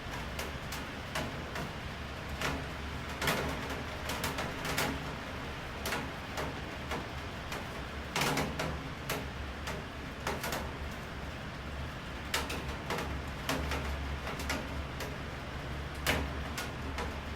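Rain falling, with irregular drips tapping sharply on a hard surface, some louder than others, over a steady low hum.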